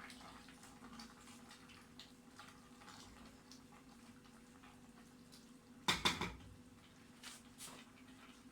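Kitchen cookware and utensils clattering: a short loud clatter of several quick knocks about six seconds in, followed by two lighter clinks, over a faint steady hum.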